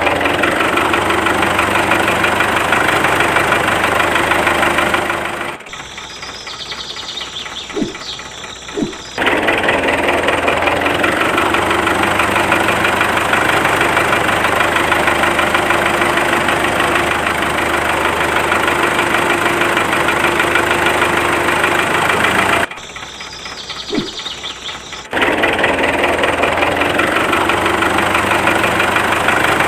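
Small DIY diesel engine running steadily for a water pump. Twice the engine sound drops away for a few seconds, leaving only a few faint clicks, then picks up again.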